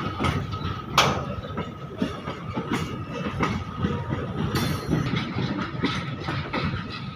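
Indian Railways goods train running past: its wagon wheels clatter over the rail joints with irregular clanks, one sharp clank about a second in, over a thin steady high-pitched tone.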